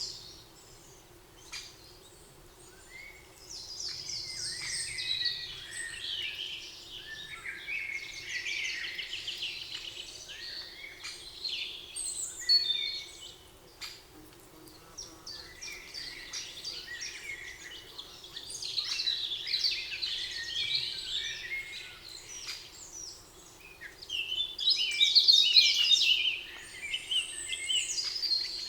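Several songbirds singing in a spring forest, with overlapping high trills and chirps coming in waves between short lulls. The loudest burst of song comes near the end.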